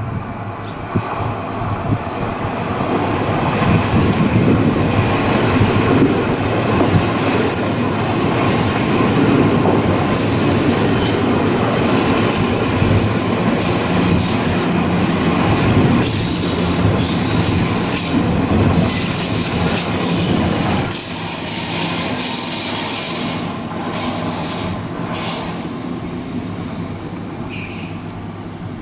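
Odakyu 8000 series electric train passing through a station without stopping: a loud rolling rumble with wheel clatter that builds over the first few seconds, with high-pitched wheel squeal in the middle, then fades as the train draws away near the end.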